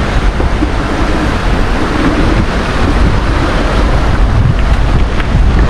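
Loud, steady wind noise buffeting a GoPro's microphone as it moves along the trail on a riding e-bike.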